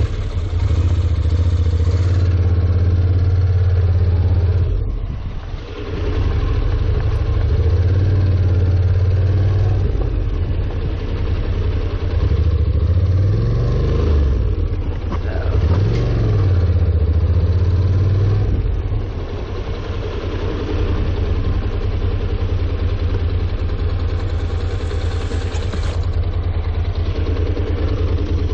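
Honda NC700X's parallel-twin engine running at low speed, a steady low hum whose pitch falls and rises a few times around the middle of the stretch as the throttle is eased and opened.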